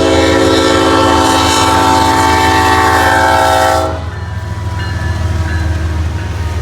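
Norfolk Southern locomotive horn sounding one long blast of about four seconds over the low rumble of the train, then cutting off, leaving the rumble going on.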